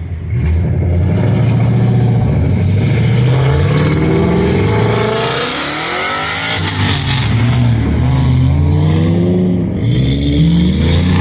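A car engine revved hard again and again, its pitch climbing and dropping back several times, as in a rev battle.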